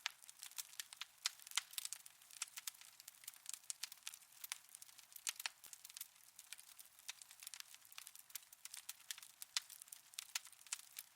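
Fire crackling in a fireplace: a dense, irregular run of small sharp pops and snaps, with no low roar of flame beneath them.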